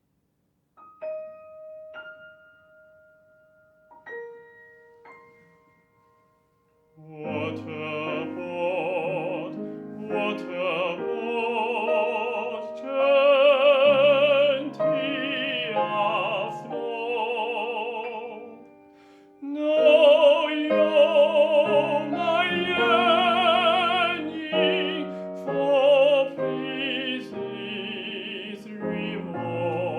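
Classical art song: a few sparse, ringing piano notes, then from about seven seconds an operatic voice singing with wide vibrato over a piano accompaniment.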